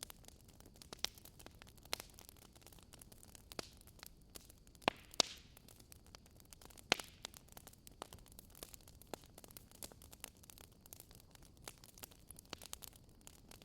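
Fireplace wood fire crackling: irregular sharp pops and snaps over a faint steady hiss, with a few louder pops near the middle.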